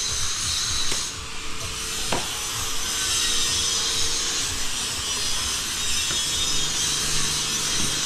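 A saw cutting up firewood, a steady rasping noise with no clear break over the few seconds.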